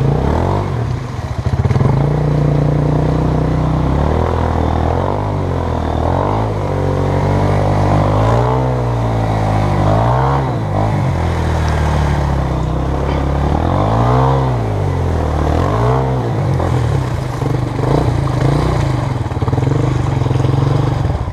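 Honda CRF230 dirt bike's single-cylinder four-stroke engine running on the trail, revving up and easing off again and again as the rider works the throttle.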